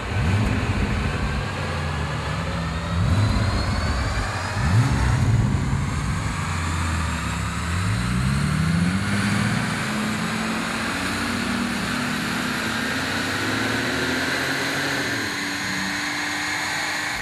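2007 Bentley Continental GTC's twin-turbo W12 engine, breathing through a secondary-cat-bypass X-pipe and muffler bypass pipes. It revs up briefly three or four times in the first few seconds, then makes one long pull with the pitch rising steadily through the rest.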